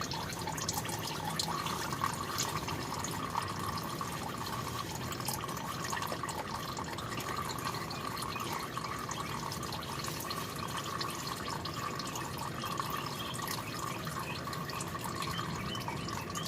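Used engine oil draining in a steady trickling stream into a drain pan, with small drips landing throughout.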